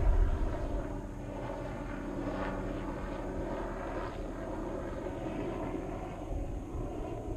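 Zero FX 7.2 electric motorcycle running around a track: a steady drone of electric motor whine and riding noise.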